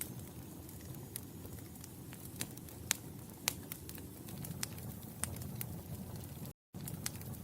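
Wood fire crackling: irregular sharp pops and snaps over a low, steady rumble of burning, with two louder pops about three seconds in. The sound cuts out completely for a split second near the end.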